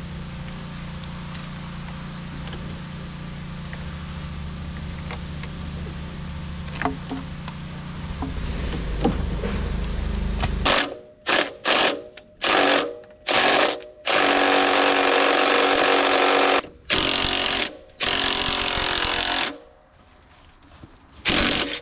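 A power tool run in bursts: several short triggers, then a longer run of a couple of seconds and two more, after a stretch of steady machine noise with a low hum that slowly grows louder.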